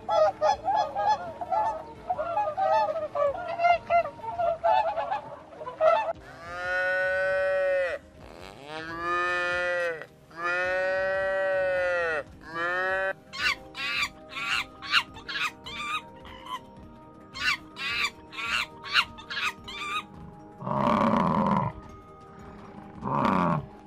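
A flock of flamingos honking in a rapid chatter for about six seconds, then a calf mooing in several long calls. A run of short, sharp calls follows, and near the end a Cape buffalo gives two low, drawn-out calls.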